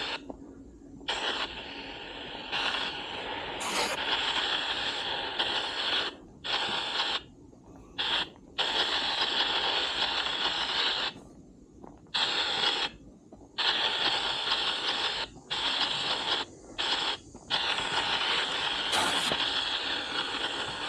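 Spirit-box app on a phone playing through its speaker: chopped bursts of static-like noise that cut in and out irregularly, with short gaps of near silence between them.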